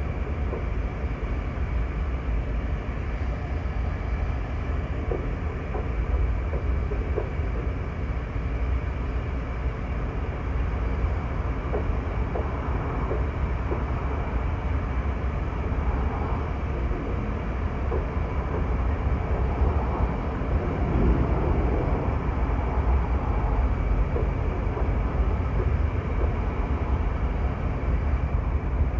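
Freight train rolling past: a steady, heavy rumble of rail cars with scattered light wheel clicks.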